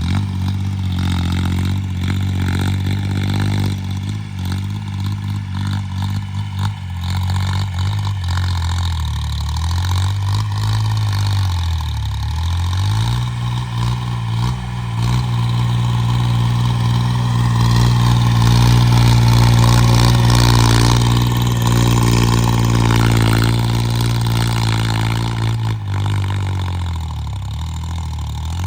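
Homemade 26 hp tractor's engine running, its pitch sinking low about twelve seconds in and again near the end, and rising between, highest around the middle.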